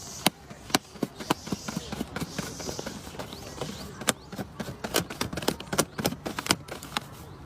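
A run of irregular sharp taps and knocks, some in quick clusters and others about half a second apart.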